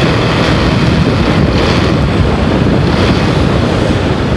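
Wind rushing over the microphone of a motorcycle under way, with the bike's running noise beneath it; steady and loud.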